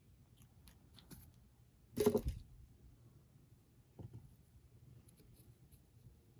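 Faint handling of paper and book materials: light taps and rustles, with one louder rustle about two seconds in.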